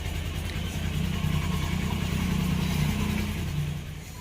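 An engine running at idle: a steady low rumble that eases off just before four seconds in.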